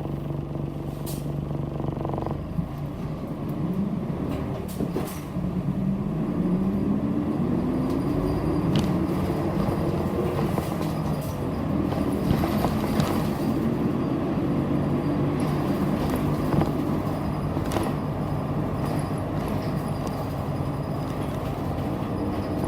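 City bus heard from inside the cabin. The engine idles steadily for about two seconds, then the bus pulls away and the engine pitch rises and drops repeatedly through the gear changes as it picks up speed. Road noise and occasional rattles and clicks come from the cabin.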